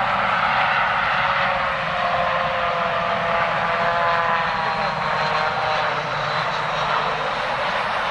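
Airbus A320-200 airliner's jet engines, a steady rush with several tones that slide slowly down in pitch.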